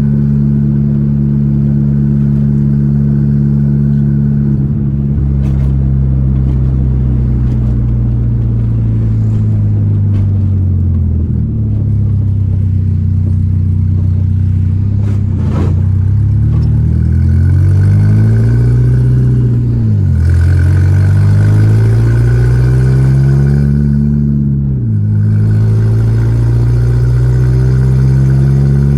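Volkswagen Gol G4 Rallye's four-cylinder engine under way: a steady engine note that dips in pitch midway, then climbs twice as the car accelerates, falling sharply at each gear change, once about two-thirds through and again near the end.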